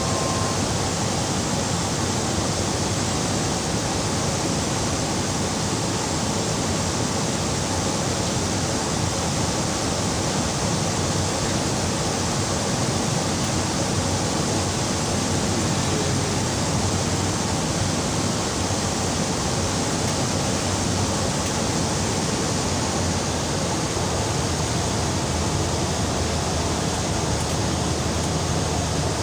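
Steady cabin noise of a small turboprop passenger plane in flight: an even rush of engine and propeller drone with airflow, unchanging throughout.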